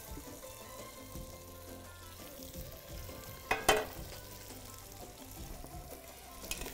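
Chicken pieces sizzling quietly as they fry with onions in an aluminium pot on a gas burner. About three and a half seconds in, cookware clanks sharply twice in quick succession.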